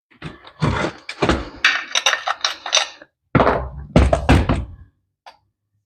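A quick run of knocks and thunks, in two clusters with a last single tap near the end. They come from working at the stuck kick-start cover on a 1973 Harley-Davidson Ironhead to knock it loose.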